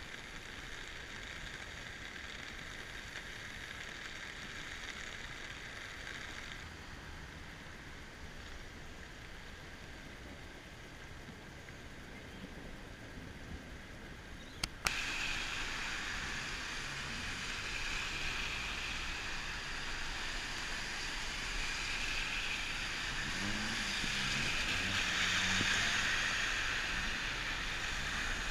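Floodwater rushing through a flooded creek as a steady noisy rush of water. About fifteen seconds in it cuts sharply to a louder, fuller rush.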